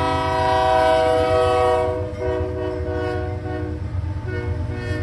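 Diesel locomotive's multi-chime air horn sounding a held chord that drops in pitch about two seconds in and again near the end, over the low rumble of the engine and train.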